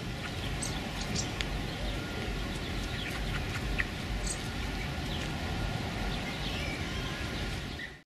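A few short, high bird chirps scattered over a steady low outdoor background noise.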